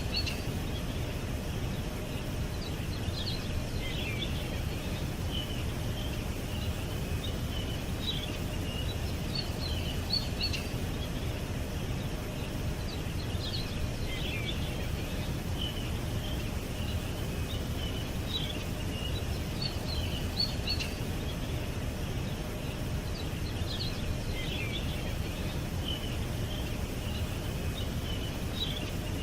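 Birds chirping, with clusters of short high chirps every few seconds, over a steady low background rumble.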